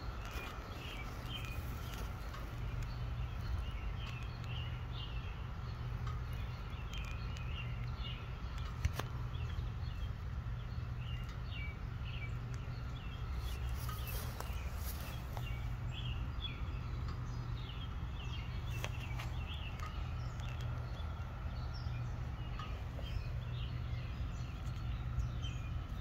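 Birds chirping in many short calls over a steady low hum, with a faint steady high whine throughout.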